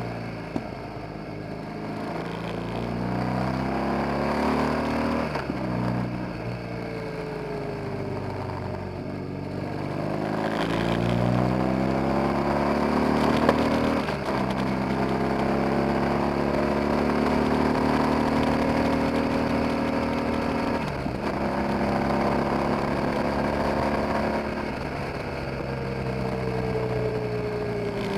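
BMW R 1200 GS flat-twin engine running under way, its pitch climbing under throttle and dropping sharply at several gear changes, then falling off as the bike slows near the end.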